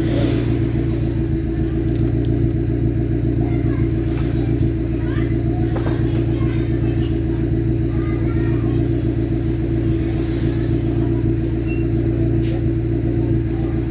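Nissan Nismo with a straight-piped exhaust, idling steadily during warm-up after a cold start; a deep, even exhaust note with no revs.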